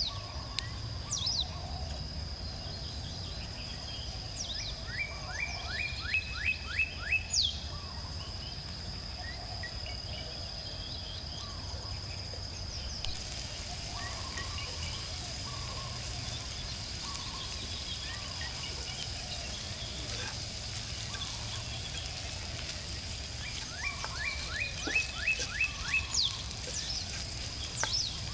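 Outdoor ambience with a songbird singing: a quick run of repeated short notes about five seconds in and again near the end, with scattered chirps in between. A thin, continuous high tone and a steady low rumble run under it.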